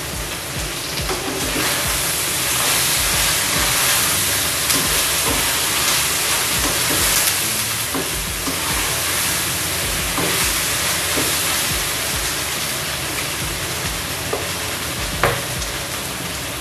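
Food sizzling steadily in hot oil in a nonstick wok over a gas burner, with a spatula stirring and now and then clicking against the pan.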